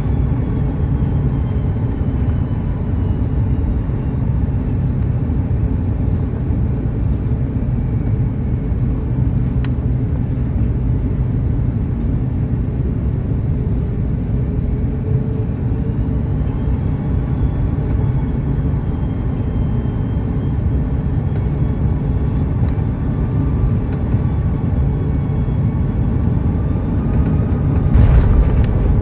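Airliner cabin noise heard from inside an Airbus A330-202 with General Electric CF6-80E1A4 engines: a steady deep rumble of engines and airflow, with faint engine whines that slowly drift in pitch. Near the end a sudden louder rush sets in.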